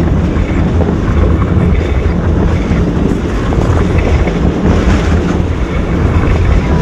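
Railroad cars rolling past just above a ground-level microphone: a loud, steady rumble of steel wheels on the rail, with rushing air from the passing train buffeting the microphone.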